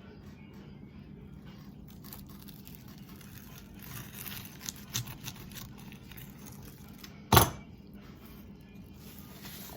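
A kitchen cutter slicing through a crisp quesadilla on a plate: scraping and crunching with a few light clicks, and one sharp knock about seven seconds in, over a low steady hum.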